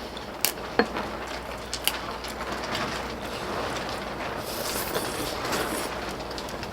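A few sharp clinks of eating utensils against dishes in the first two seconds, one leaving a short ring, over a steady outdoor background hiss.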